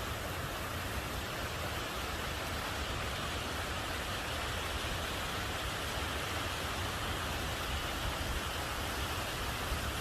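Heavy rain and rushing water, a steady even hiss with a low rumble underneath.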